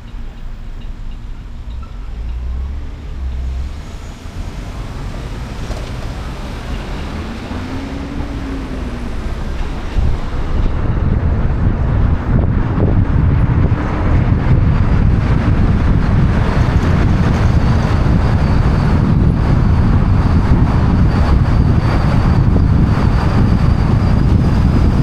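Road and traffic noise from a moving car, picked up by a camera mounted on its roof. The low rumble grows clearly louder about ten seconds in.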